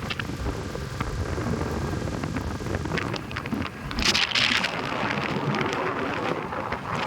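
Wind buffeting the microphone on a moving motorbike, over road and engine rumble, with a louder hissing rush about four seconds in.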